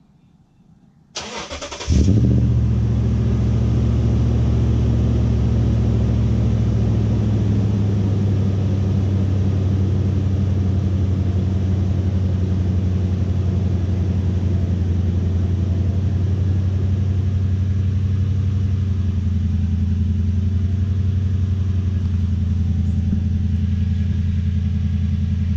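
2008 Toyota Tundra cold start: about a second of starter cranking, then the engine catches about two seconds in and settles into a steady idle. The exhaust is stock piping with a custom cat, the factory true dual merged into a single, and it is not super loud.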